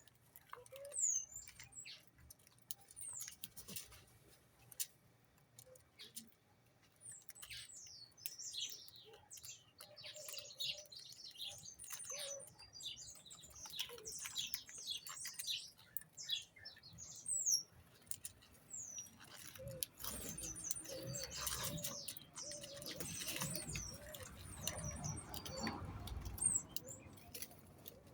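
Birds chirping, with many short high calls that slide in pitch, mixed with scattered light taps and wing flutters.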